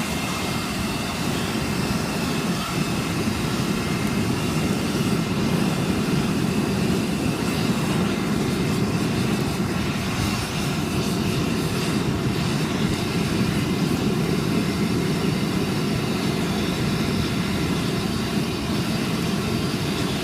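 Large bonfire burning with a steady low roar.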